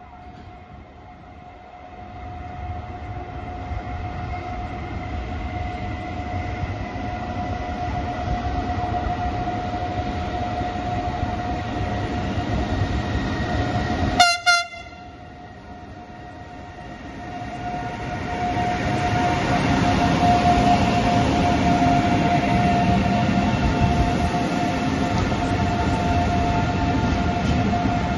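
Electric freight train running into the station, its rumble building as it approaches, with a short horn blast about halfway through. Afterwards the loaded container wagons roll past with a louder, steady rumble.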